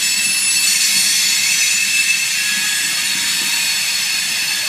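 Freight train's coal hopper cars rolling past at a steady pace, with a steady rolling noise and a high, multi-toned squeal from the steel wheels on the rails.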